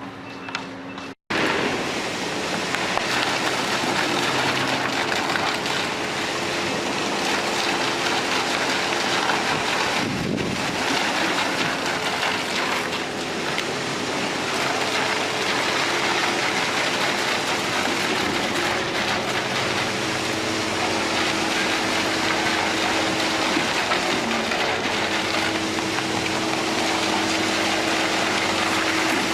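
Steady, loud machinery noise with an engine hum underneath that shifts pitch now and then. It starts after a sudden cut about a second in.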